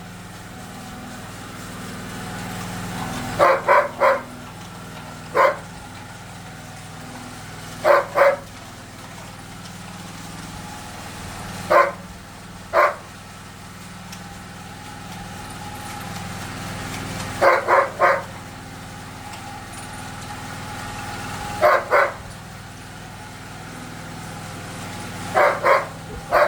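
A dog barking in short groups of one to three barks every few seconds, over a steady low engine hum.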